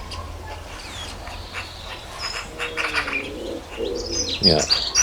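A dove cooing in a low, repeated phrase about halfway through, with small garden songbirds chirping and twittering, louder near the end.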